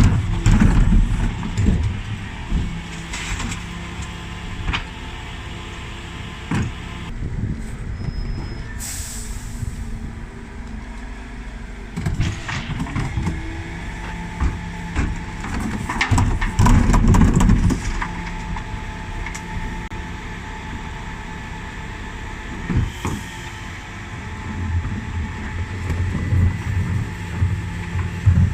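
Dennis Elite 6 bin lorry running steadily while its Terberg bin lift works, with knocks and clatter from the lift and bins. There are two louder low stretches, one at the start and one about sixteen seconds in, and a short hiss of air about nine seconds in.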